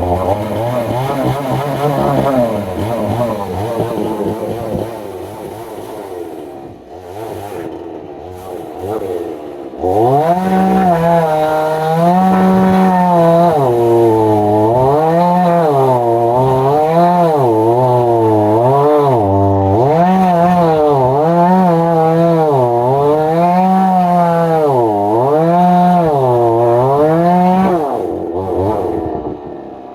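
Two-stroke chainsaw ripping a log in chainsaw milling. It runs at lower revs at first, then goes to high revs about ten seconds in. Its pitch repeatedly sags and recovers as the chain bogs under load in the cut, and it drops off near the end.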